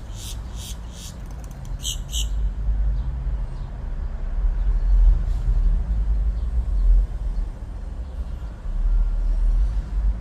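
A bird gives about five short, sharp chirps in the first two seconds, over a steady low rumble that continues after the chirps stop.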